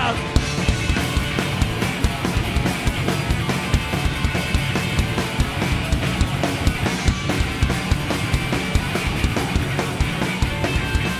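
Live rock band playing an instrumental passage between sung lines: loud electric guitars and bass over busy drum-kit hits.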